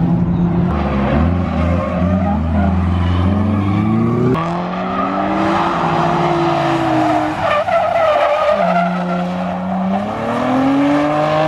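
Drift cars sliding past on track: engines revving up and down hard, with tyres squealing and skidding.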